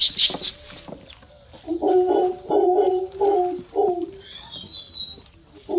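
Monkeys calling: a few high squeals at the start, then a run of short, repeated hooting calls, about five in two seconds, which start up again near the end.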